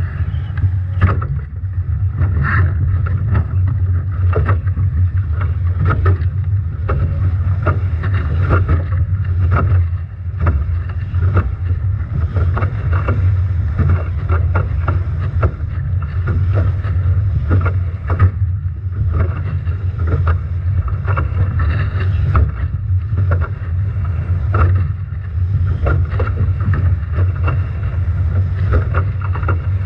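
Strong wind buffeting the microphone on a Nacra 17 foiling catamaran sailing upwind in storm conditions, a loud steady rumble, with frequent sharp slaps and splashes of waves and spray against the boat.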